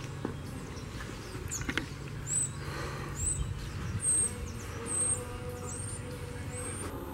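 A bird calling: a series of about six short, high chirps, roughly one a second, beginning about two seconds in, over a steady low background rumble.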